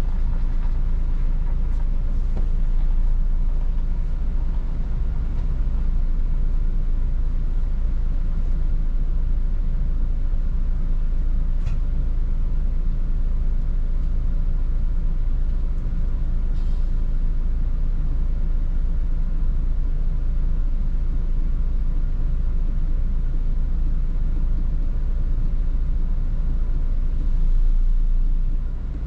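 Volvo 8900 city bus heard from on board while driving: the engine running steadily under a constant low road and tyre rumble, with a couple of faint clicks or rattles partway through.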